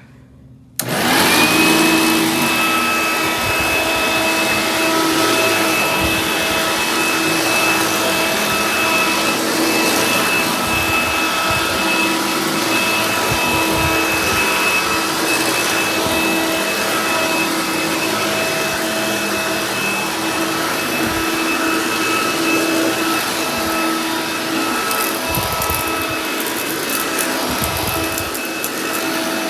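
Hoover Dial-a-Matic upright vacuum cleaner switched on about a second in, its motor spinning up quickly to a steady high whine and then running continuously on carpet.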